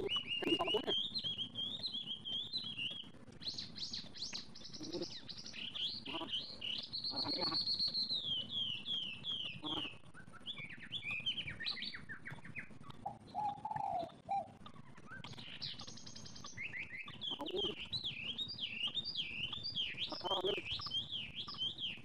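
Small birds calling continuously in quick, high-pitched series of chirps and wavering trills, with short pauses between runs.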